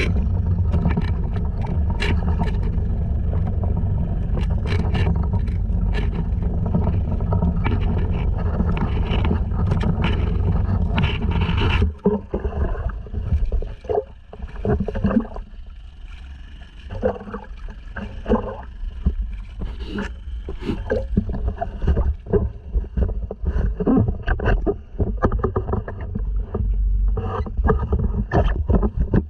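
Honda 2.3 four-stroke outboard motor running steadily on a sea kayak. About twelve seconds in, its sound drops off abruptly, leaving irregular water splashes and sloshing against the hull.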